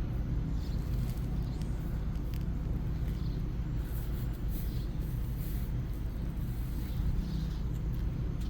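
A steady low rumble of outdoor background noise with no distinct events.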